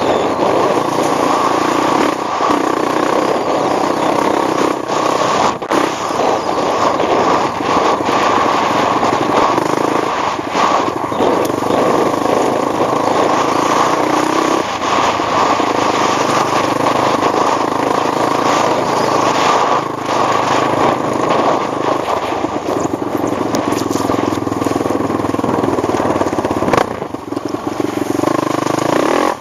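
ATV engine running steadily under throttle, easing off briefly a couple of seconds before the end and then picking up again.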